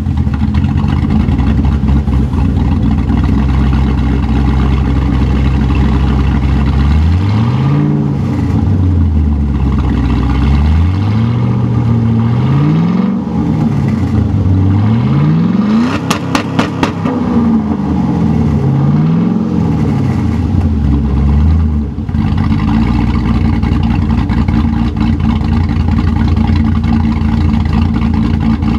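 2006 Saleen Mustang GT's cammed 3-valve 4.6-litre V8 (Ford Racing cams) with the exhaust cutouts open ahead of the mufflers: it idles, is revved four times, the third rev the highest, then settles back to idle.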